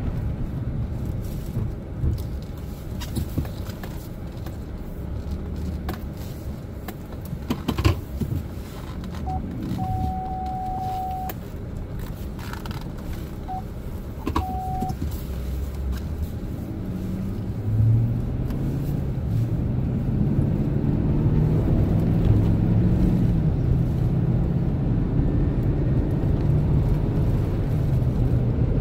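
Chevrolet Silverado pickup heard from inside the cab: engine and road rumble while turning around at low speed, with a few knocks and a short steady beep about a third of the way in. From a little past halfway the engine note grows louder and rises as the truck speeds up.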